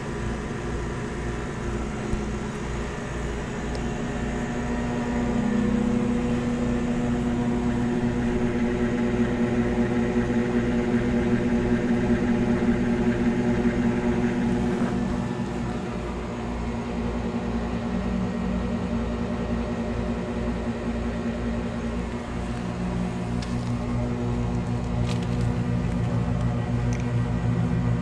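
Steady mechanical droning hum with an even low pulsing: a nearby train running, mixed with an air conditioner outdoor unit. The unit's condenser fan is turning extremely slowly on a failed run capacitor, and it is unclear whether the compressor is running.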